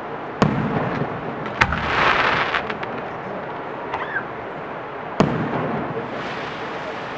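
Aerial firework shells bursting with sharp booms: loud ones about half a second in, at about one and a half seconds, and about five seconds in, plus a fainter pop near four seconds.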